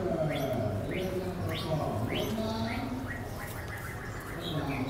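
Small birds chirping repeatedly in quick, high, falling notes, about two a second, with lower wavering sounds underneath.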